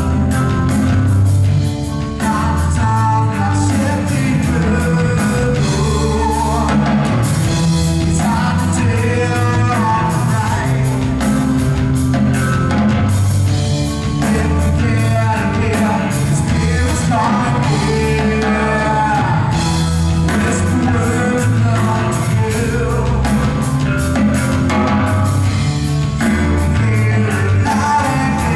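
Rock band playing with drums, guitar and bass, and a singing voice over it.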